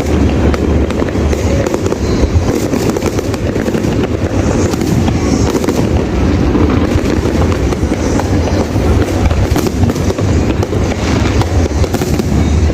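Fireworks display going off in a continuous barrage of many overlapping bangs and crackles.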